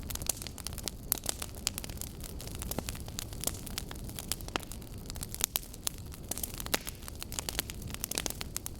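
Wood fire burning, with logs crackling and popping in many sharp, irregular snaps over a low steady rumble of the flames.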